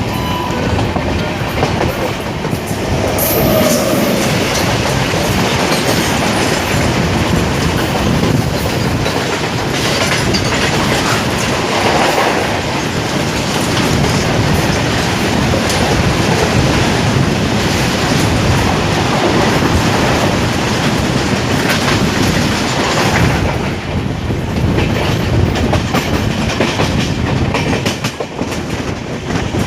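A passenger train running along the track, its wheels clattering steadily over the rail joints with a dense rushing noise throughout.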